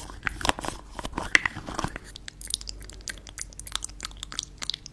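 Close-miked crunchy crackling and clicking, many small sharp ticks in quick irregular succession.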